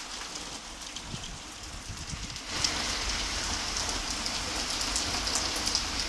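Heavy downpour: a steady hiss of rain on surfaces that grows louder about two and a half seconds in, with scattered sharp ticks of individual drops.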